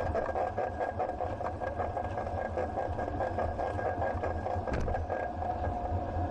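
Riding noise picked up by a bike-mounted action camera: a steady mechanical hum and rattle with rapid ticking, mixed with a motor-vehicle engine running in the street traffic.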